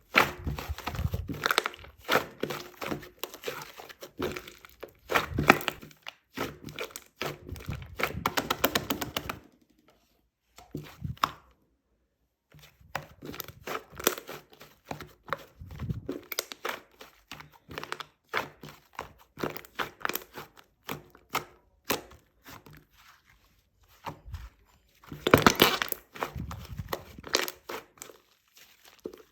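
Pink slime being squished and pressed by hand, with dense bursts of sharp crackling clicks and pops and a pause of a few seconds about ten seconds in.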